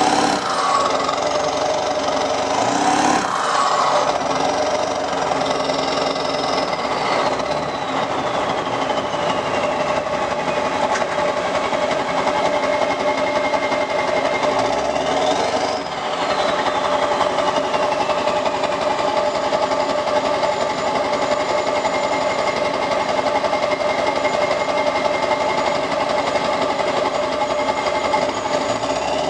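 Straight-piped 7.3 L Powerstroke V8 turbo-diesel exhausting through 6-inch stacks, clattering at idle. It is revved briefly twice, about three seconds in and again about halfway, and after each rev a turbo whistle winds slowly down over several seconds.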